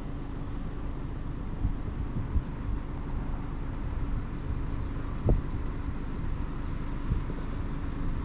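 Wind rumbling on the microphone, with a light knock about five seconds in.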